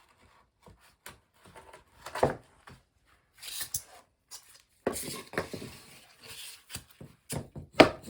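Wooden subfloor tile being handled and fitted: scattered knocks and short scrapes, then near the end a run of sharp, even knocks, about three a second, as the tile is tapped into place.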